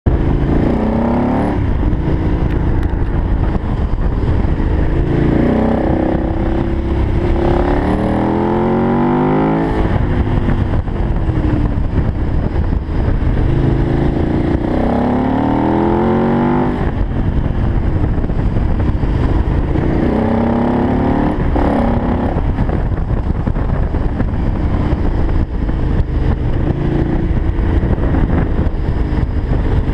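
KTM 990 Adventure's V-twin engine under way, its pitch rising several times as it is accelerated and then falling back. Steady wind rush on the microphone runs under it.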